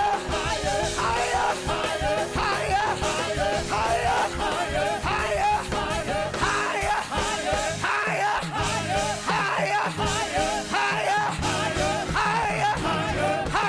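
Gospel praise music with a band and singing voices, with some shouting over it.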